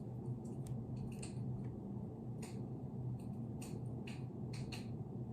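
Quiet room tone: a steady low hum with scattered faint, irregular clicks and ticks.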